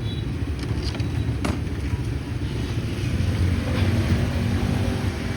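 Low, steady rumble of street traffic, with a single sharp click about one and a half seconds in.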